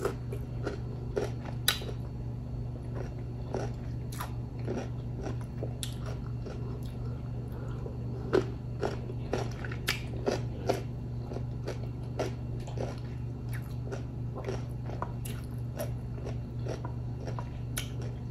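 Close-up mouth sounds of a person biting and chewing raw cucumber slices: irregular crisp crunches and wet chewing over a steady low hum.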